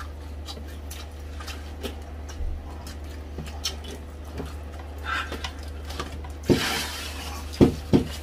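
Close-miked eating sounds: chewing, lip smacks and small wet mouth clicks from crispy pork hock eaten by hand, over a steady low hum. About six and a half seconds in a paper napkin rustles briefly, followed near the end by two sharp knocks.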